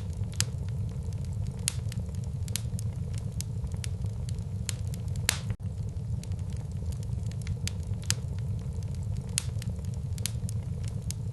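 Wood fire burning in a fireplace: irregular sharp crackles and pops over a steady low rumble of flames, with one louder pop about five seconds in.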